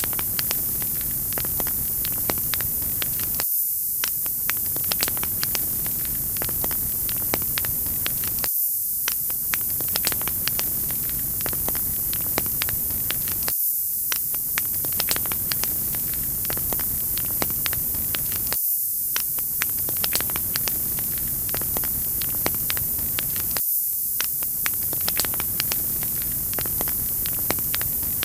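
Wood fire crackling: a steady hiss dotted with many small sharp pops. About every five seconds the low part of the sound drops out for a moment, as at the seam of a repeating loop.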